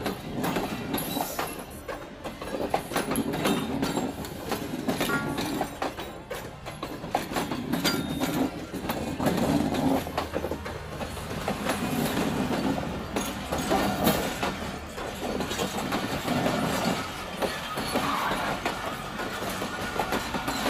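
Train rolling through at close range: steel wheels clacking over rail joints in a continuous run of clicks over a rumble that swells and fades as the railway coaches go by.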